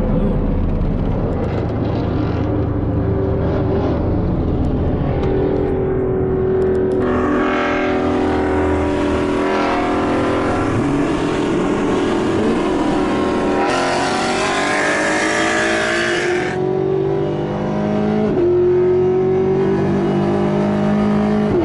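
Car engines running at speed on the road, with road and wind noise. Near the end the engine pitch climbs and then drops back twice, like a car accelerating through its gears.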